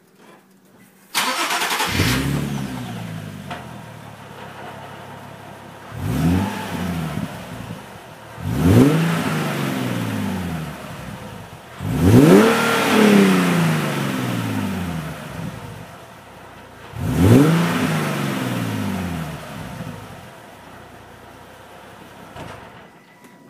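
Nissan 370Z Nismo's 3.7-litre V6 exhaust: the engine starts about a second in, settles to idle, and is revved four times in short blips, each rising and then falling back to idle, the third the highest. It shuts off near the end.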